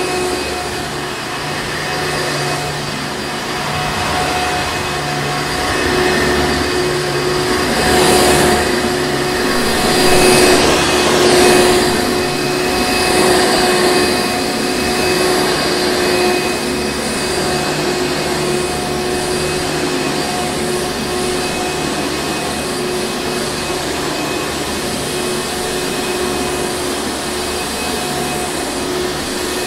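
Hoover Encore Supreme vacuum cleaner running steadily, a constant motor whine over airflow noise. It gets louder and rougher for a few seconds about eight seconds in, then settles back.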